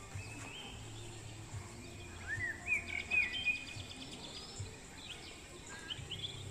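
Small birds chirping and twittering outdoors, a run of quick rising-and-falling chirps loudest a little before the middle, over a faint steady low hum.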